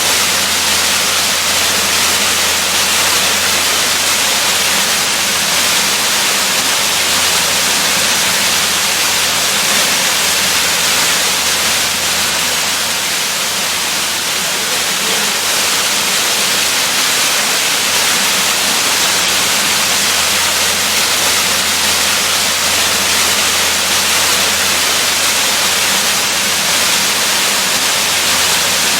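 Waterfall: falling water rushing in a steady, even hiss with no change throughout.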